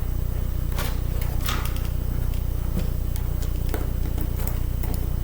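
A few light, sharp clicks and taps as small parts of a laptop CD drive are handled during disassembly, over a steady low electrical hum.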